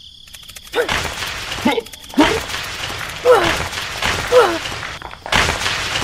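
Several short, squeaky cartoon-style voice sounds, most sliding down in pitch, over a steady gritty hiss that grows louder about five seconds in.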